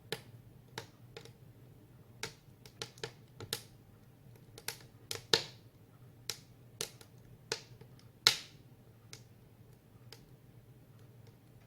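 Firewood crackling and popping as it burns in a wood stove: irregular sharp pops, the loudest about five and eight seconds in, over a faint low hum.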